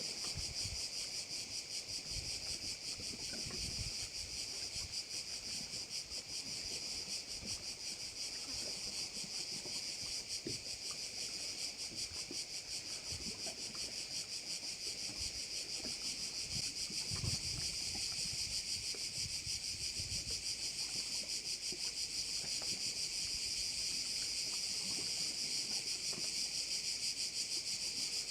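Dense chorus of crickets chirring steadily in a continuous high buzz, with faint low wind rumbles underneath.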